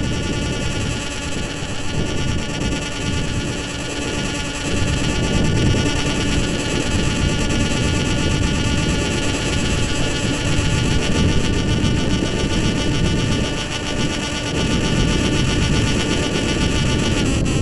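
RC model airplane's motor and propeller running steadily in flight as a whine, with wind noise rumbling on the microphone.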